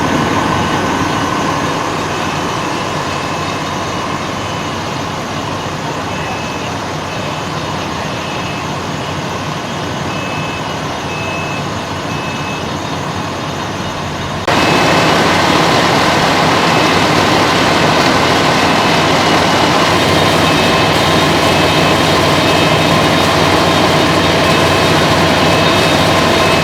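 Fire truck engine running steadily, with faint short high beeps recurring. About halfway through it suddenly gets louder.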